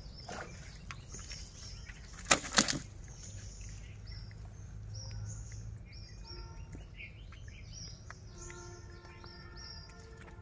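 Small birds chirping repeatedly in short high calls, with two loud slaps close together about two and a half seconds in. A faint set of steady held tones joins in after about six seconds.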